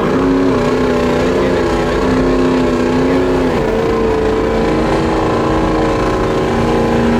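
Truck engine revved up and held at high revs, its pitch steady, easing down a little about three and a half seconds in and holding there.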